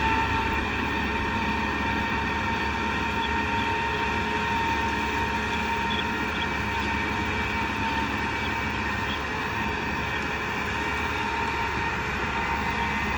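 Kubota M6040 tractor's diesel engine running at a steady speed, with a steady high whine over the engine noise.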